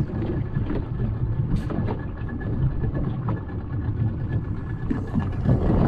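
A small boat's outboard motor running with a steady low rumble.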